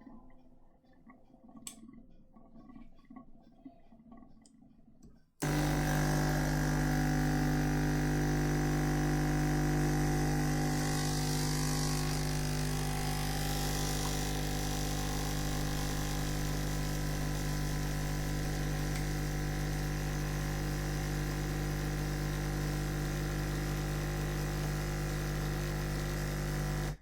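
Krups Type 962 espresso machine's water pump switches on suddenly about five seconds in and runs with a steady loud buzz for about twenty seconds, then cuts off at the end. It is working properly.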